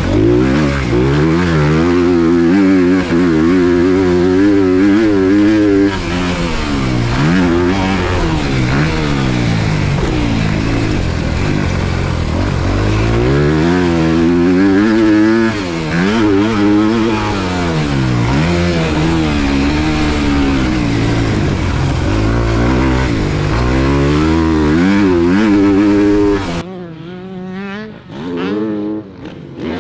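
Dirt bike engine being ridden hard on a motocross track, its pitch repeatedly rising and falling as the rider works the throttle and shifts gears. About 26 seconds in it suddenly drops much quieter.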